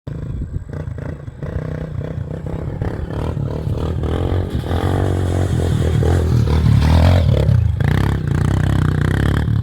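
Single-cylinder trail motorcycle engine running, with many short knocks and rattles over it.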